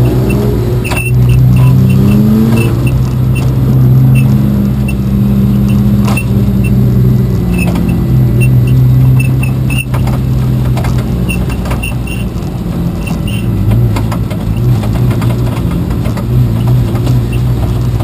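Race car engine running hard: it revs up for about two and a half seconds, drops in pitch at a gear change, then holds and varies in speed, with light rattling and clicking throughout.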